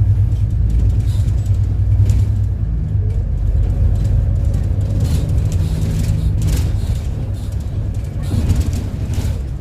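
City bus heard from inside the cabin while under way: the engine runs with a steady low hum, and there are a few brief rattles or knocks.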